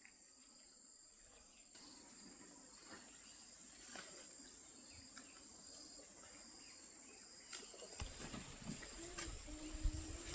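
Steady high-pitched insect chorus of crickets or cicadas. Near the end, scattered sharp clicks and knocks come in over a low rumble.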